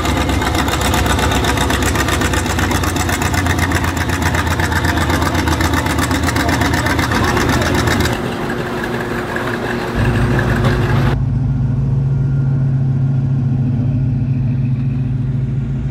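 Classic car engines running loudly at close range as the cars pull away and drive past, a dense, pulsing exhaust sound. Near the middle it gives way to a steadier, deeper engine hum.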